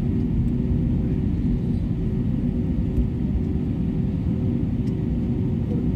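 Steady rumble of an Airbus A320neo in flight or on its takeoff run, heard from inside the cabin: engine and airflow noise with a low, even hum.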